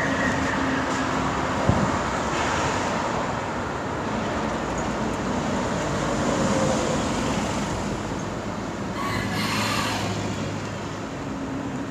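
Steady mechanical running noise, like a small motor driving a model tractor, with a single sharp click about two seconds in.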